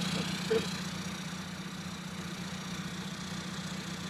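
Suzuki Jimny's swapped-in Pumpe Düse (PD) turbo-diesel engine running steadily at low revs, close to idle, as the vehicle crawls along without throttle.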